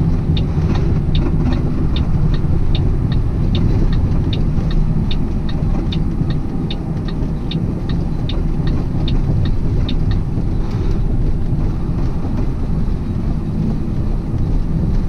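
Steady low rumble of a loaded semi truck driving, heard inside the cab. Over it runs a regular high ticking, about two to three ticks a second, that stops about ten seconds in.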